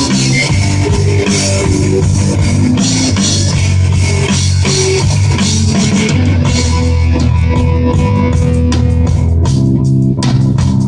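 Rock band playing, with drum kit, electric guitar and bass, loud and steady; near the end the texture thins to separate drum hits.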